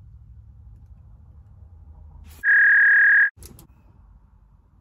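A loud censor bleep, one steady high beep of just under a second, about two and a half seconds in, over a faint low rumble.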